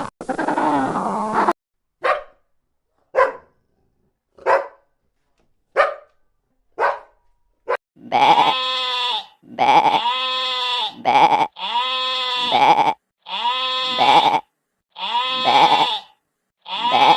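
A dog barks six times, single sharp barks about a second apart. From about eight seconds in, repeated long bleats follow, each about a second long.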